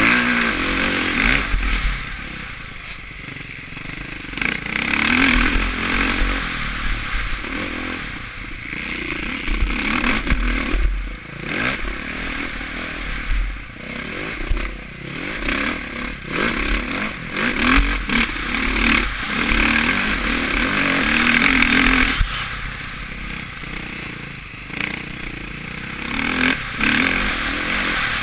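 Suzuki RM-Z450 four-stroke single-cylinder motocross bike ridden hard around a dirt track, its engine revving up and dropping back again and again through the gears and corners, with wind rumble and chassis clatter.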